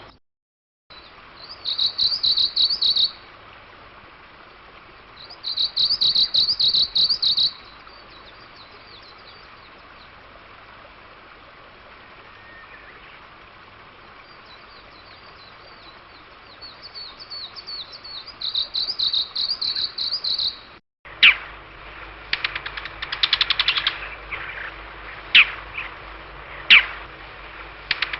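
Wild bird song: three phrases of rapid, repeated high notes, each about two seconds long. After a brief break about three quarters of the way in, a different bird gives sharp, short high calls, a few of them louder single notes.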